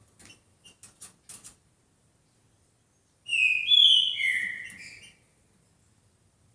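Green-winged saltator (trinca-ferro) singing one short, loud phrase of clear whistled notes lasting about two seconds, midway through, after a few faint clicks.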